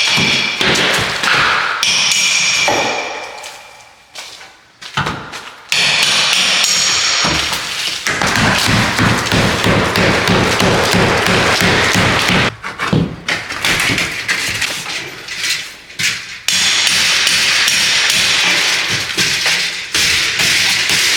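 Hammer and pry bar knocking and prying drywall corner bead loose, with repeated sharp knocks and long stretches of scraping and tearing.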